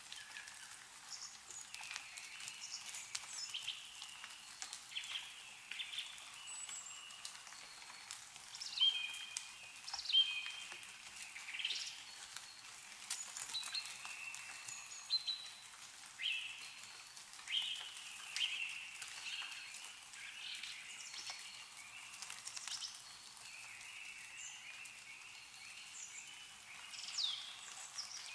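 Small songbirds chirping and calling again and again in short rising and falling notes, over faint scattered drips of meltwater falling from snowy branches.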